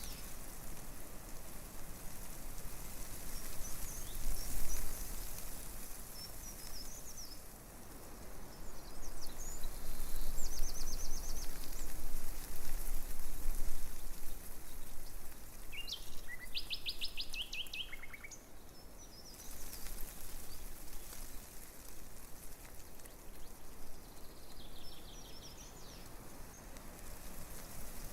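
Breeze rustling through tree leaves, swelling in gusts and loudest around the middle, with small birds giving short high chirps and quick trills now and then.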